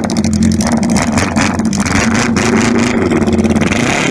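Motorcycle engine running close by at a steady low idle, its exhaust giving fast, even pulses, with a slight change in engine note about two and a half seconds in.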